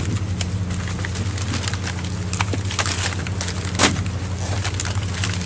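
Steady low drone of a fishing boat's machinery, with scattered clicks and knocks on deck and one louder knock a little before four seconds in.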